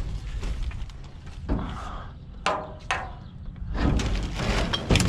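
Irregular knocks, thuds and scraping of discarded household items being shifted and pulled out of a pile of junk, busiest in the second half, over a steady low rumble.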